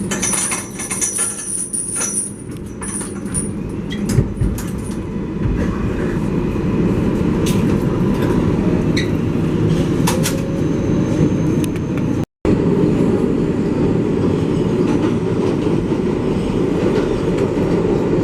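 R188 subway train of the 7 line running between stations, heard from inside the car: a steady rumble of wheels on rail. A thin, high wheel squeal comes and goes in the first few seconds.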